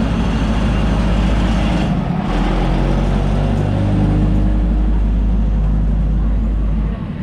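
Diesel train engine running close by: a deep, steady rumble with a few low tones that shift slowly. It eases off briefly about two seconds in and drops near the end.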